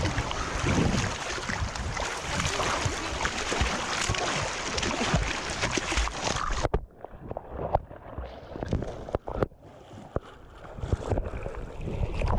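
Rushing river water with wind buffeting the microphone. About seven seconds in, the sound suddenly turns muffled and much quieter, with scattered knocks and bumps.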